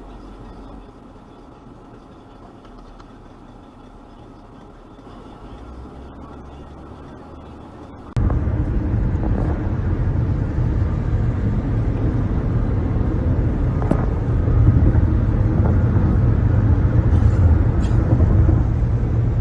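Road noise of a car being driven: a steady low rumble of engine and tyres. It is quiet at first, then abruptly much louder from about eight seconds in.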